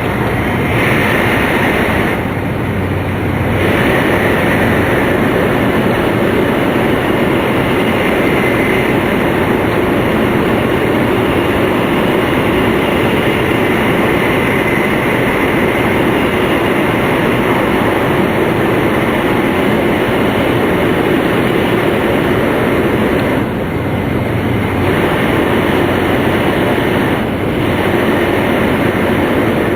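Interior running noise of an E2-series Tohoku Shinkansen train at speed, heard from a passenger seat: a steady rumble and hiss of wheels on rails and air along the car body. The hiss thins out briefly a few times.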